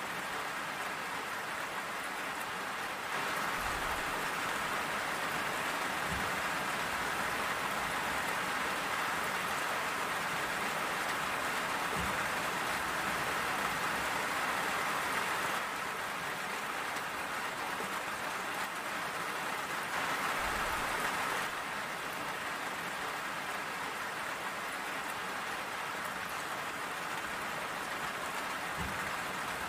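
Steady rain falling, an even hiss that grows heavier for stretches and eases again, with a few faint dull thuds.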